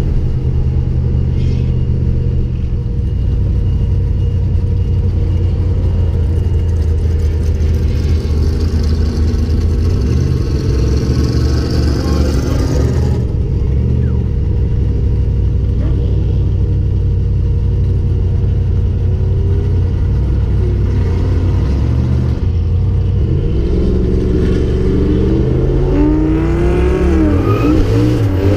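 Turbocharged Toyota 1UZ-FE V8 in a KE20 Corolla heard from inside the cabin, running steadily at low revs while the car rolls. A hiss builds and cuts off sharply about halfway through, and near the end the engine revs up with a rising pitch as the car accelerates.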